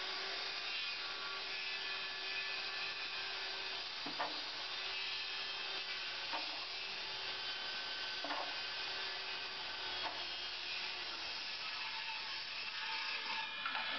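Handheld circular saw running and cutting through a stack of wooden lath strips: a steady motor whine with the rasp of the blade in the wood and a few faint knocks. The whine drops away about three-quarters of the way through while the rasping goes on.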